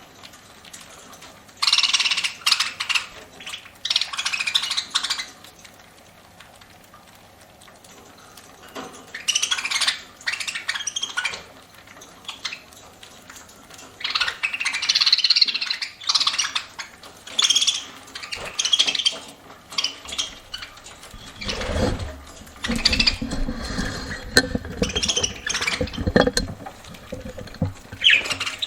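Pet budgerigars chirping and chattering in short, irregular bursts while pecking and cracking seed as they eat. Over the last third, heavier low thumps and rustling join in.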